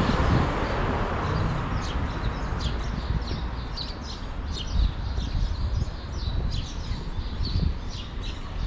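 Many small birds chirping in rapid, short calls over a low rumble of street noise. A rushing noise, like a passing vehicle or wind, fades over the first second or two.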